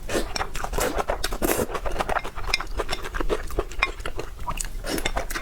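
Close-miked eating: a dense, irregular run of wet chewing and smacking clicks, with utensils clinking against a dish.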